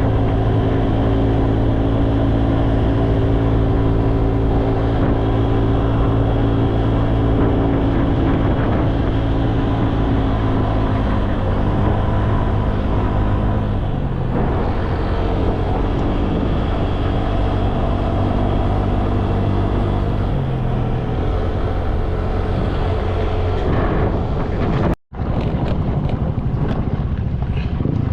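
Motorcycle engine running steadily under way, its pitch stepping down about halfway through and again later as the speed changes. The sound cuts out for an instant near the end.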